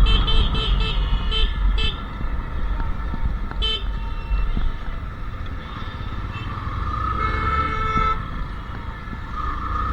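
Royal Enfield Classic 350 Reborn's single-cylinder engine running with a low rumble as it rides through traffic, while vehicle horns honk: a quick series of short beeps in the first two seconds, a single short beep near four seconds, and a longer horn blast about seven seconds in.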